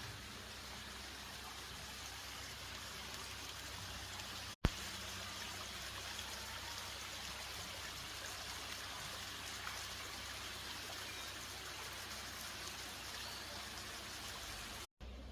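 Stream water running steadily in an even rushing hiss. It briefly cuts out twice, the first time followed by a sharp click.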